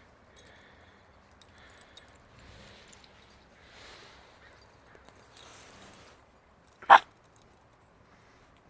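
A Shiba Inu gives one short, sharp bark near the end, over faint rustles and small clicks from the dogs playing.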